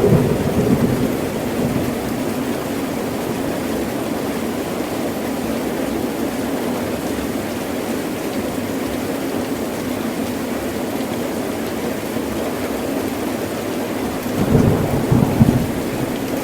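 Heavy rain falling steadily, with low rumbles of thunder swelling just after the start and again near the end.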